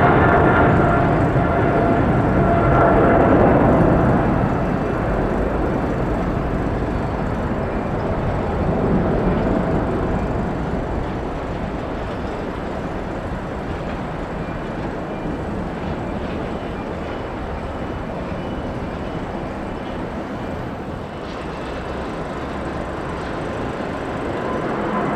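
Jet airliner engines running, a rumble with a whine on top, fading over the first four seconds into a steady, quieter rumble; the noise of another jet rises near the end.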